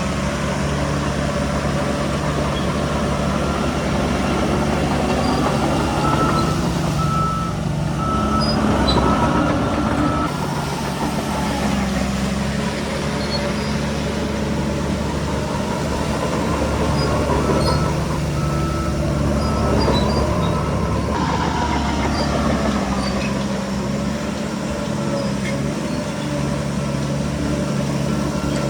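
Heavy diesel earthmoving machinery running, its engine pitch rising and falling under load, with a reversing alarm beeping in two stretches, about a quarter and two thirds of the way through.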